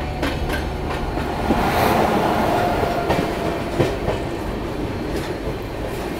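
Passenger train running along the track: a steady rumble and rattle from the wheels and coaches, with scattered knocks as the wheels pass over rail joints.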